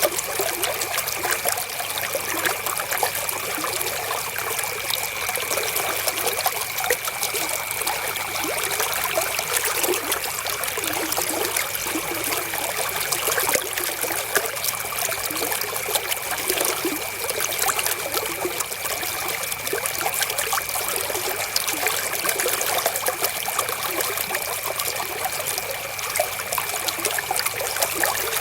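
River water flowing steadily, a continuous trickling, splashing rush with little deep rumble. A faint steady high tone runs underneath.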